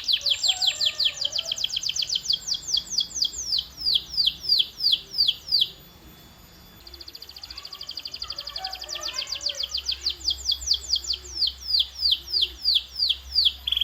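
Domestic canary singing: a rapid trill of high, downward-sweeping notes that slows to a few notes a second, then breaks off briefly. A second fast trill follows and slows the same way.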